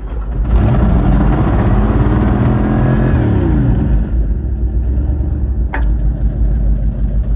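1971 Ford F100 engine catching on a cold start, its revs climbing for a few seconds and then dropping back to a lower, steady run. A single sharp click near the end.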